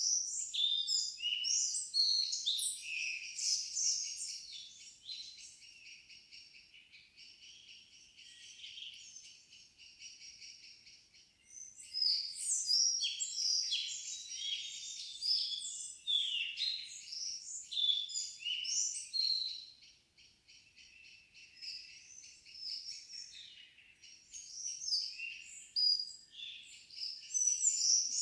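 Several forest songbirds singing over one another, with quick chirps and whistled phrases in busier and quieter spells. A steady, fast, high trill runs beneath them for stretches.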